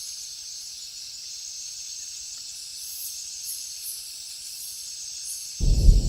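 Steady hiss of night rain on a tin roof, with a steady high-pitched ringing over it. Near the end a loud low rumble breaks in suddenly.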